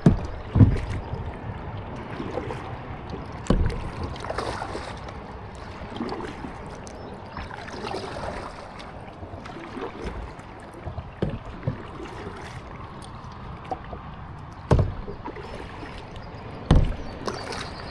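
Kayak paddling on a river: water splashing and trickling off the paddle blades stroke after stroke, with a few dull thumps.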